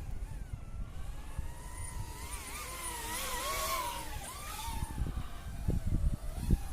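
DJI Avatar 2 FPV drone's propellers whining, the pitch rising and falling quickly as the throttle changes in fast flight, with wind buffeting the microphone in low gusts that grow stronger near the end.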